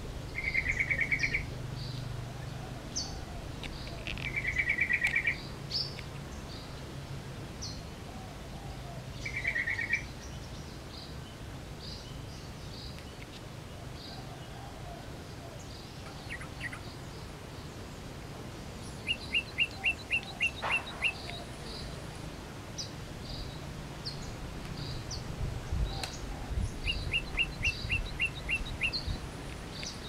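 Yellow-vented bulbul and other birds calling. Short chattering bursts come three times in the first ten seconds, and two runs of about eight quick clipped notes come later, over a scatter of thin, high, repeated notes.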